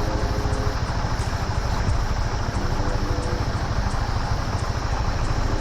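Motorcycle engine running steadily while the bike edges forward in traffic.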